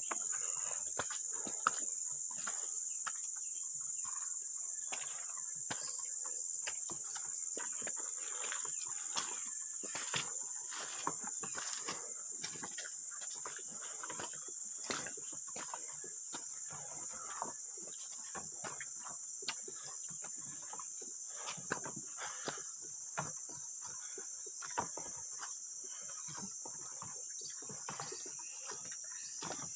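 Steady high-pitched drone of insects such as crickets or cicadas, with frequent irregular small clicks and knocks over it.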